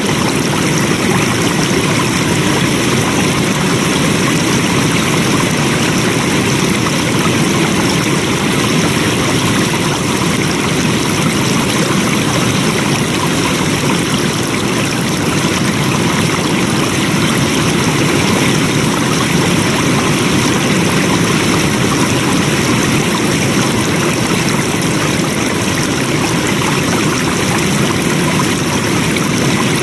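Flowing water: a stream running steadily over rocks, an even rushing noise with no breaks.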